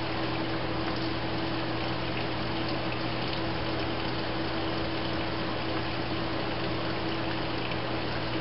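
Parts-washer solvent streaming steadily from the hose, with the aquarium pump that feeds it giving a steady hum underneath.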